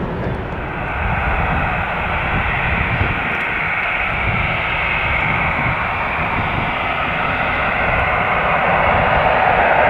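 Jet airliner's engines running, a steady loud rush with low rumble that grows a little louder near the end.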